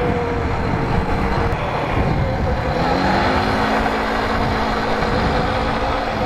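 Air-cooled Polaris ATV engine running under way, with heavy wind rumble on the microphone. About three seconds in, the engine note rises and then holds steady as it picks up speed.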